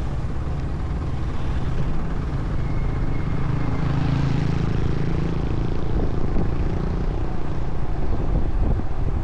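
Motorcycle engine running while riding, with road and wind noise. The engine note swells about four seconds in.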